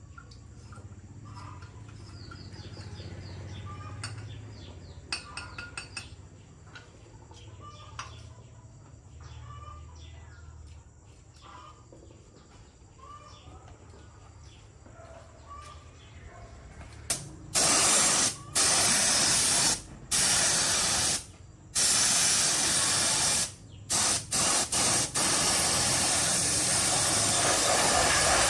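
Compressed-air spray gun hissing in long bursts with short breaks between them, starting about two-thirds of the way in; before that only a faint background.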